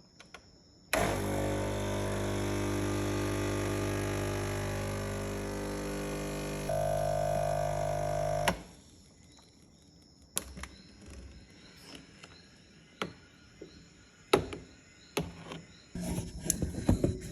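Espresso machine pump running with a steady buzzing hum for about seven and a half seconds; its tone shifts partway through, then it cuts off. Scattered clicks and knocks follow, growing busier near the end.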